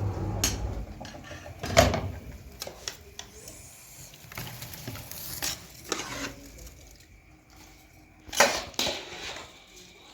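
Scattered knocks and clicks at irregular times, as of hard objects being handled or set down, the loudest about two seconds in and another near the end.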